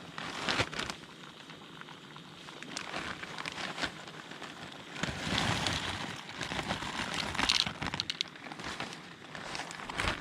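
Wind gusting, rising and falling in swells, with scattered clicks throughout.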